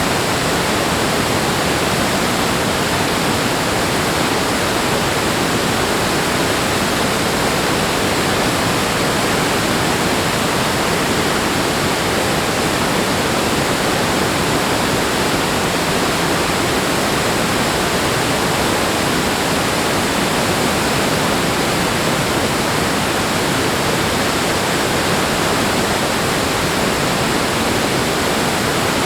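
Steady, unbroken rush of running water, even and loud without surges.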